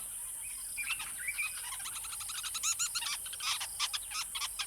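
A chorus of many short, rapid, high chirping animal calls overlapping, over a steady high hiss.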